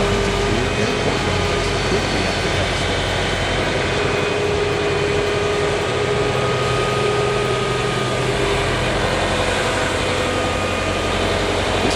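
Engine of a piece of heavy machinery running steadily under a continuous noise, with a few steady tones.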